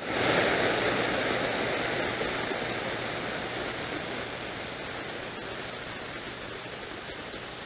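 CB radio receiver hissing with static between transmissions. The hiss comes on suddenly as the last transmission ends and slowly fades.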